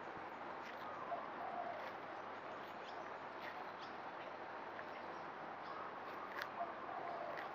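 Birds calling outdoors over a steady background hiss: scattered short chirps, and a soft mid-pitched call heard about a second in and again near the end.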